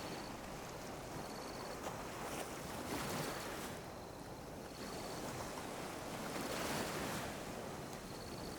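Small ocean waves lapping and washing onto a beach, swelling about three seconds in and again around six to seven seconds.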